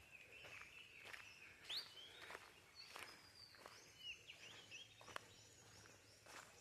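Faint bird calls in a forest, short rising and falling chirps and whistles, with scattered light clicks and crunches like footsteps on leaf litter.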